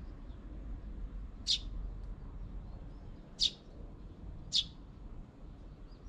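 A small bird at a feeder gives three short, high chirps, the last two closer together, over a steady low rumble.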